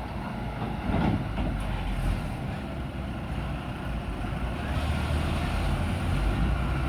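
Heavy machinery diesel engine, a backhoe loader or tractor at a soil-loading site, running steadily and growing louder about two-thirds of the way through, with a short knock about a second in.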